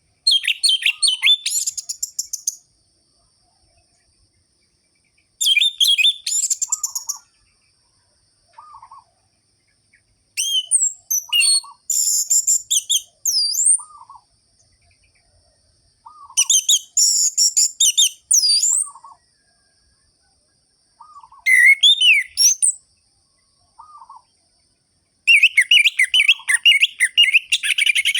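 Orange-headed thrush singing in full voice: fast, rolling, high warbled phrases of two to three seconds each, broken by short pauses. A soft lower note repeats about every second and a half underneath.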